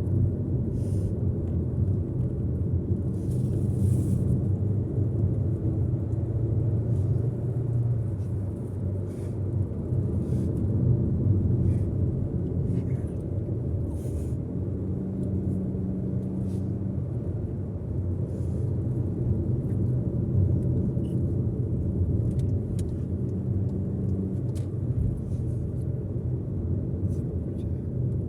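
Steady low road rumble of a moving car, engine and tyre noise heard from inside the cabin.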